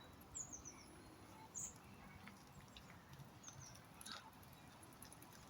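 Faint, high bird chirps against quiet background: short groups of quick descending notes about half a second, a second and a half, and three and a half seconds in.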